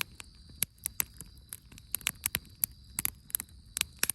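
Wood campfire crackling, with frequent irregular sharp pops and snaps as the firewood burns.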